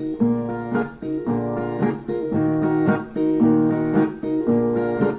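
Brazilian viola playing an instrumental interlude between sung verses, with chords struck in a steady rhythm, about once a second, and ringing on between strokes.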